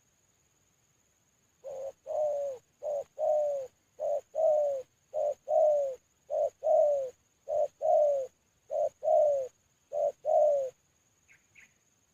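Spotted dove (terkukur) cooing: a run of eight paired coos, each a short note followed by a longer one that falls in pitch, repeated about once a second, starting a couple of seconds in. Two faint high chirps come near the end.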